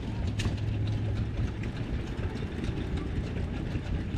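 Several antique hit-and-miss engines running together: a steady low chugging with scattered sharp clicks and pops.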